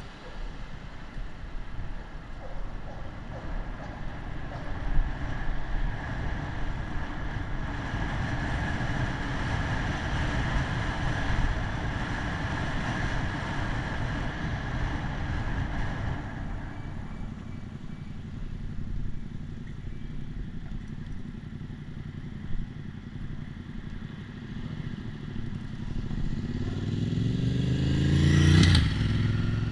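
Wind and road noise while riding a bicycle, with a motor vehicle passing close near the end, its engine rising and then dropping sharply in pitch as it goes by.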